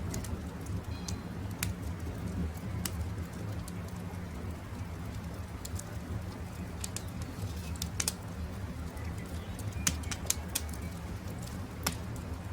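Wood fire crackling, with frequent sharp pops and snaps (a few louder ones near the end) over a steady low rumble. Faint bird calls in the background.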